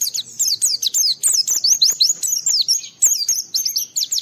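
A white-eye (pleci) singing continuously: a fast, high-pitched twittering song of quick sliding notes, several per second, with a short break about three seconds in.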